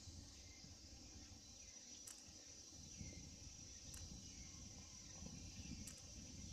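Insects chirping in one steady, high, thin trill, with a faint tick about every two seconds and a low rumble of wind underneath.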